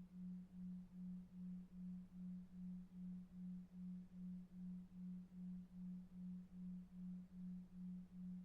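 Low, steady pure tone pulsing on and off evenly about two and a half times a second, a 2.5 Hz delta-wave pulse for sleep, over faint brown noise.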